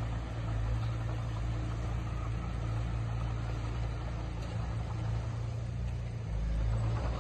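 Diesel engine of heavy earthmoving machinery running steadily, a continuous low engine sound with no break.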